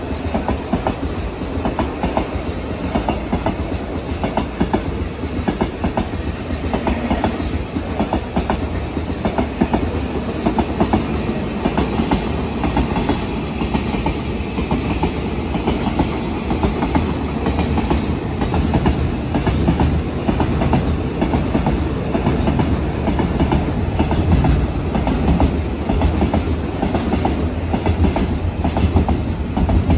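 A long train rolling past at steady speed, its wheels clattering in a rapid, continuous run of clicks over the rail joints, over a steady low rumble.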